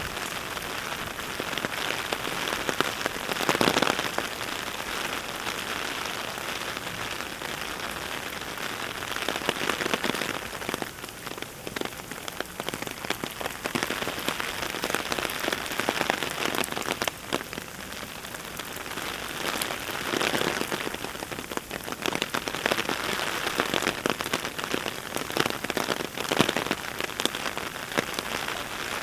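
Heavy rain falling, a dense patter of drops that swells louder several times.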